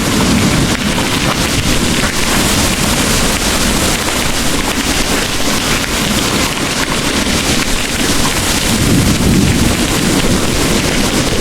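Heavy rain pouring steadily, with a low rumble of thunder building near the end.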